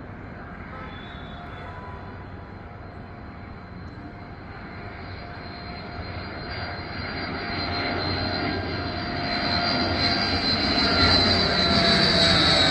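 Airplane engine noise, steady in tone and growing steadily louder throughout.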